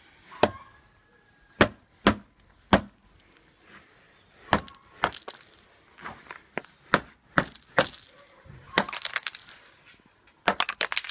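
An irregular series of sharp knocks and clacks, some single and some in quick rattling clusters, like hard objects striking or breaking.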